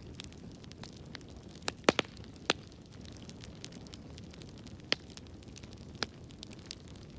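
Wood fire crackling in a fireplace: a steady low rumble of burning with irregular sharp pops and ticks. The loudest pops come as three in quick succession about two seconds in, with two more near five and six seconds.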